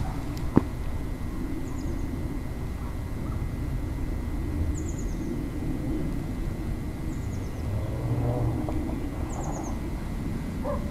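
A small bird giving a short, high, falling call four times, every two to three seconds, over a steady low rumble, with a single sharp click just after the start.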